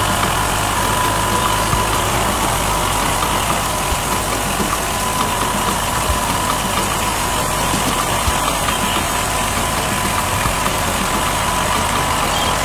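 A vehicle engine running steadily at idle, with a faint steady whine above it.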